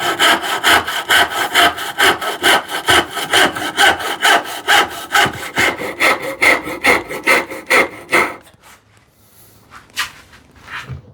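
Hand saw cutting stop cuts into a poplar board, in quick, even back-and-forth strokes. The sawing stops about eight seconds in, followed by a few light knocks.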